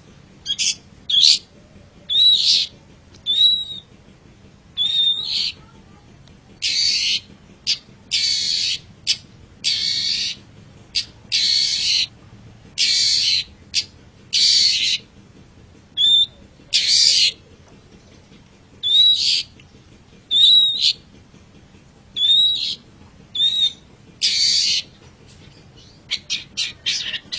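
Long-tailed shrike (cendet) calling: harsh, rasping notes alternating with short whistled notes that bend in pitch, about one a second. Near the end it breaks into a quick run of short chattering notes.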